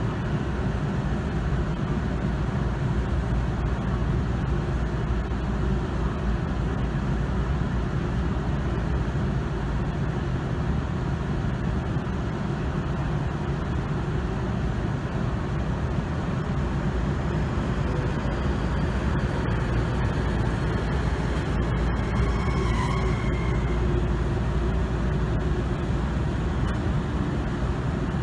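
Steady low rumble and hum from a stationary electric commuter train, its onboard equipment running while it stands at the station.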